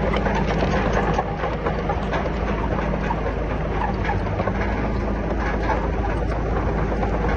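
Heavy diesel earthmoving machinery running steadily, with continuous metallic clatter and rattling over the engine.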